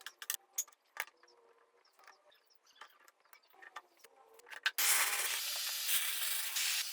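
A few light clicks and taps, then, about five seconds in, a loud steady spraying hiss starts.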